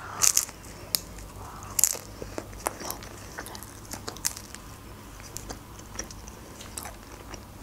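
A woman biting into a rolled piece of lahmacun, a thin Turkish flatbread topped with minced meat, then chewing it, with many small sharp clicks and crunches of the crisp crust.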